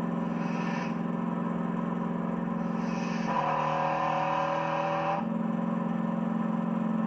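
Big V8 car engines running at a steady, moderate speed. The engine note changes abruptly about three and a half seconds in and again after five seconds, as the sound jumps from one car to the other.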